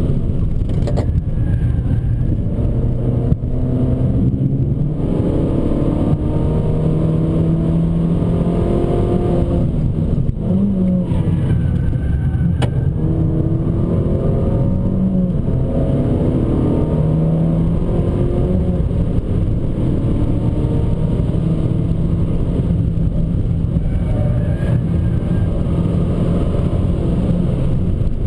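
Abarth 595 Competizione's turbocharged 1.4-litre four-cylinder engine pulling hard through the gears, its pitch climbing again and again with short breaks at the gear changes, over steady road and tyre noise.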